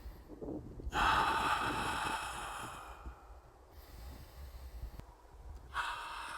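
A person taking deep breaths, twice: one long breath about a second in, lasting some two seconds, and another starting near the end.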